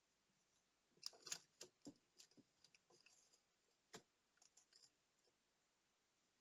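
Faint, scattered clicks and light taps of small hand tools and tiny parts being handled during watch disassembly and cleaning. A quick cluster comes about a second in, with a single sharper click near four seconds.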